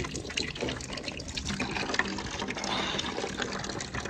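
Well water running in a trickle and splashing as it fills a container, with a faint steady low hum underneath.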